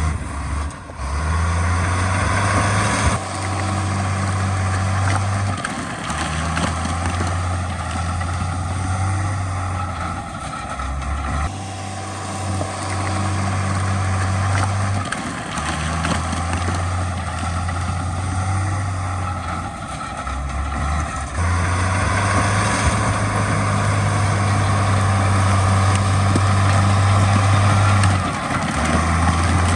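Heavy diesel earthmoving machinery running continuously. The low engine drone steps up and down in pitch every few seconds as the load changes, and the overall sound shifts abruptly about 3, 11 and 21 seconds in.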